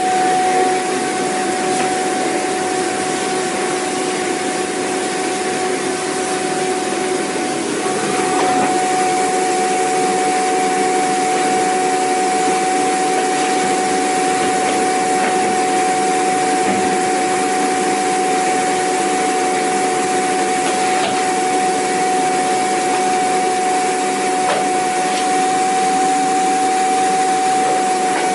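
Vacuum cleaner running steadily: a constant high motor whine over the rush of air, its lower tones shifting slightly about eight seconds in.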